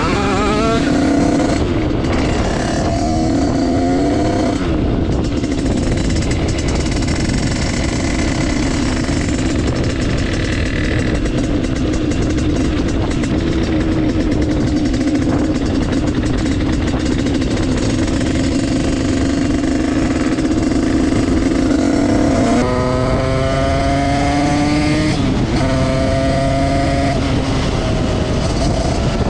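Derbi Senda's two-stroke engine, fitted with a Stage6 88cc kit, running at a steady pitch while riding. About three-quarters of the way through it revs up twice, its pitch climbing, with a short break between, as it accelerates through the gears.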